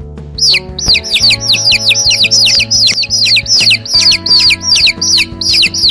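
Chicks peeping: a rapid run of short, high, falling peeps, about four to five a second, beginning a moment in, over background music.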